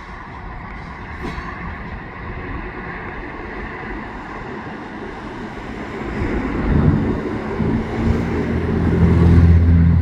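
Steady rush of outdoor vehicle noise, then a heavy engine droning low and steady from about six seconds in, growing louder and cutting off suddenly at the end.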